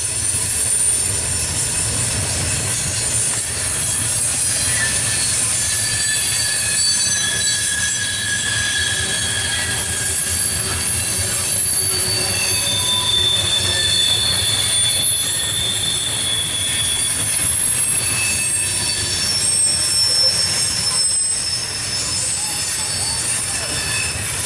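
Loaded coal hopper cars rolling past at speed: a steady low rumble of wheels on rail, with high, thin wheel squeals that come and go.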